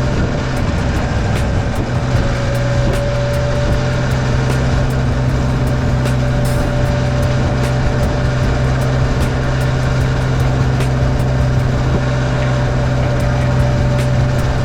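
1972 Yamaha DT-1F's 250 cc air-cooled two-stroke single running steadily at an even engine speed, with a slight dip in pitch between about half a second and two seconds in. The engine is in good running order after an overhaul.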